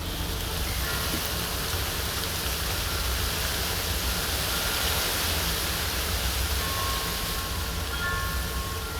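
Steady outdoor rushing noise with a low rumble, and a few faint, brief high tones from about seven seconds in.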